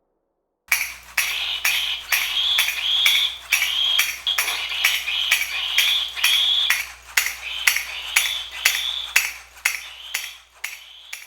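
Jolly Chimp monkey toy clashing its small cymbals, starting about a second in, about twice a second, with a high squeal between clashes.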